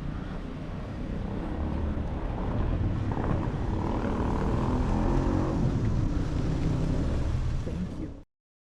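Steady low rumble of a motor vehicle running, cutting off suddenly near the end.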